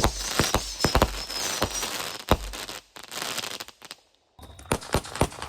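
Consumer fireworks going off in a rapid string of sharp bangs with crackling hiss, a high whistle running through the first couple of seconds. The bangs break off briefly about four seconds in, then start again.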